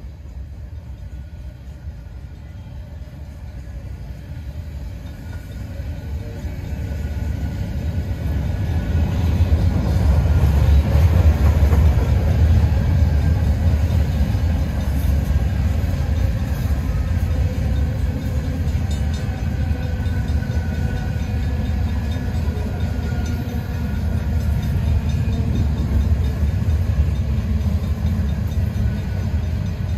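Freight train rolling past: a low rumble that builds over the first ten seconds or so, then holds steady and loud.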